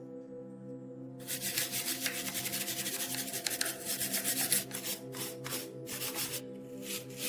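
Knife blade being rubbed back and forth on an abrasive: a continuous scraping from about a second in, breaking up in the second half into separate strokes, about three a second. Steady background music underneath.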